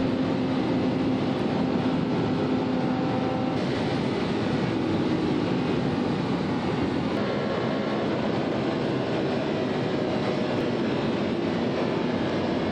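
Steady rumbling noise of a moving vehicle in motion, with a few faint steady hums.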